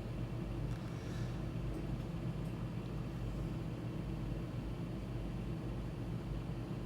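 Steady low background hum and rumble, with a faint tick or two about a second in.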